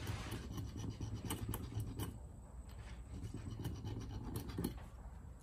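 A brief scraping at the start, like metal being filed or sanded flat, then scattered light clicks and taps of small metal starter-solenoid parts being handled.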